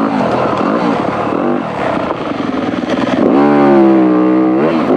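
Dirt bike engine running under way on a trail, revving up about three seconds in, holding for a second, then easing off near the end.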